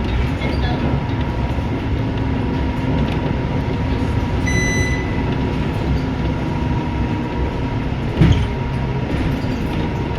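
Inside a moving Scania K230UB bus: the diesel engine and road noise run steadily. A short electronic beep sounds about four and a half seconds in, and a single thump comes near the end.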